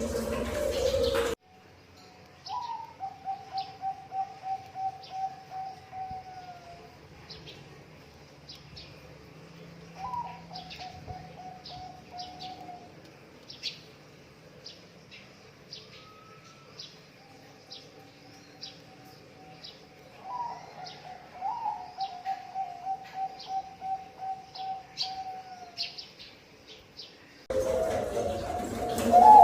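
Zebra doves (perkutut) cooing. Each song starts with a short rising note and runs into a quick string of short coos lasting a few seconds, and there are several such songs. High, short chirps from small birds sound throughout. A louder stretch of sound fills the first second or so and comes back near the end.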